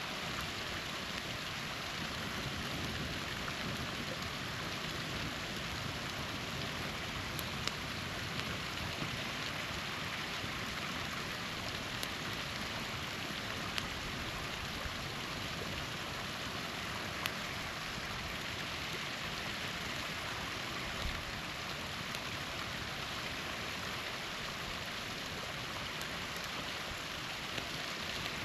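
Small waterfall rushing steadily, with a few sharp pops from a crackling campfire.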